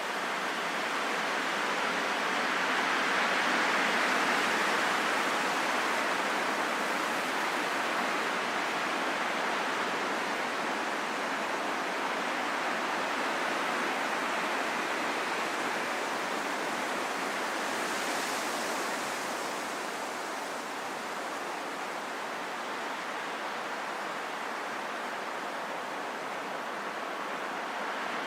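Steady rain falling in a forest, a continuous even hiss, growing a little louder a few seconds in.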